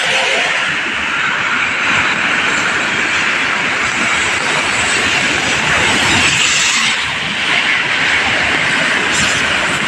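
Sea waves washing on the shore in the rain: a loud, steady rushing noise that swells and eases slightly.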